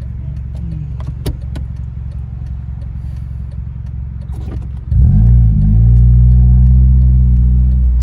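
Car engine and exhaust: a steady low hum, then about five seconds in the engine is revved and jumps to a loud, deep, steady drone.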